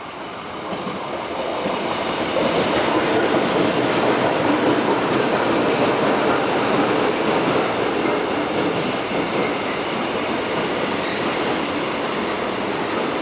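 Korail Class 341000 subway train running along the station platform. Its noise grows louder over the first two or three seconds, then holds as a steady rumble of wheels on rail.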